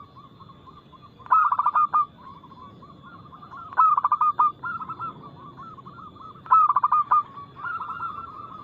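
Zebra dove (perkutut) singing: three loud bursts of rapid, staccato cooing notes, with softer cooing phrases between them.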